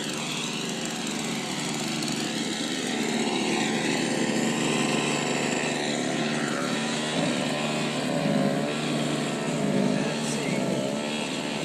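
Snowblower's small petrol engine running steadily.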